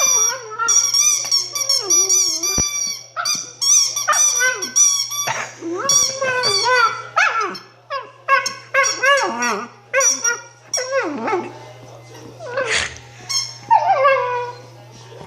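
Puppy's rubber squeaky toy squeaked over and over in quick irregular runs as the puppy chews it, mixed with the puppy's own high yips.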